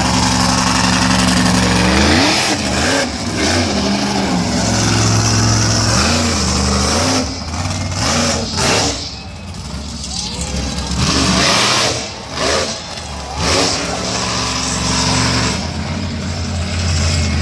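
Monster truck engine running loud, revving up and down repeatedly, then settling back to a steady run near the end.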